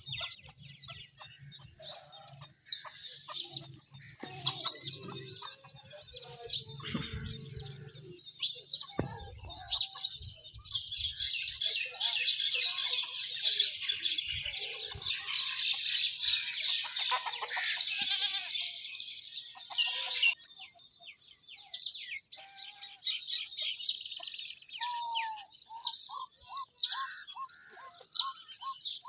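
Many birds chirping in short high calls, with occasional clucking of poultry; the chirping is densest from about 11 to 20 seconds in.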